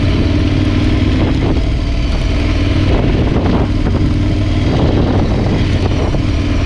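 KTM 1190 Adventure's V-twin engine running at a steady, even pace while the motorcycle rides a rutted dirt track, with a few short knocks from the rough surface.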